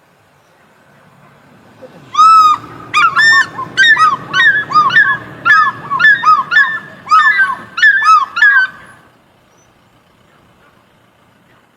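A bird giving a rapid series of loud calls, about two a second for some seven seconds, each call arching up and then down in pitch.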